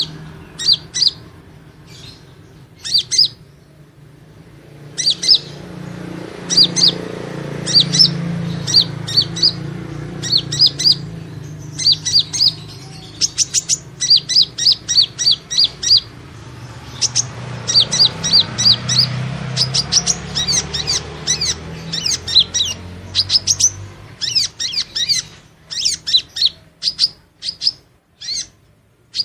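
Sunbird (kolibri ninja) song used as a trapping lure: runs of rapid, sharp, high-pitched chirps, broken by short pauses, over a low steady hum.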